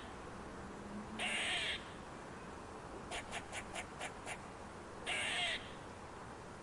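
An animal's harsh, hissing screech calls, each about half a second long, given twice about four seconds apart, with a quick run of about six short clicking notes between them.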